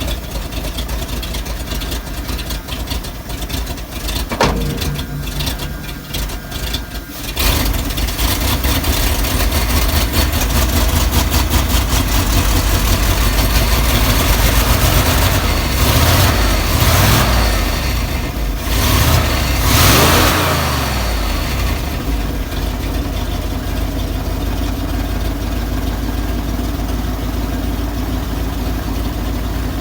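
An old water truck's carbureted gasoline engine, freshly fitted with a rebuilt carburetor, running unevenly at first. It picks up and gets louder about seven seconds in, is revved up and down several times, then settles to a steady idle on choke.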